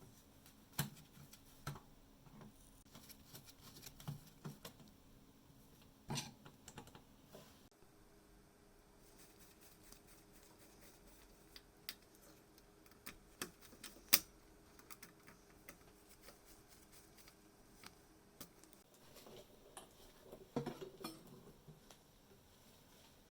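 Scattered light clicks and taps of small parts and tools being handled at a workbench, with a faint steady hum underneath that shifts to a higher pitch about eight seconds in.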